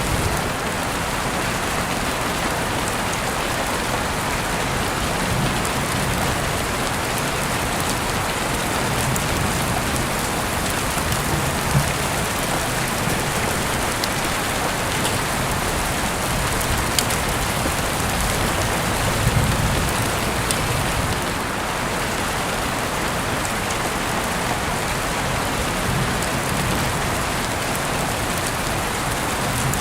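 Heavy rain falling steadily through an open window, an even hiss with a few sharp clicks of drops now and then.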